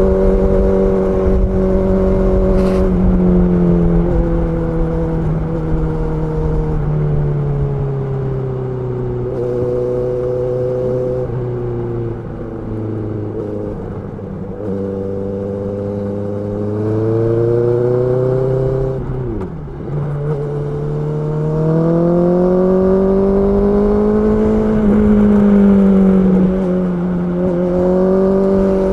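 Honda CB650R inline-four engine running. Its pitch sinks slowly through the middle, dips sharply about two-thirds of the way in, then climbs back up and holds steady.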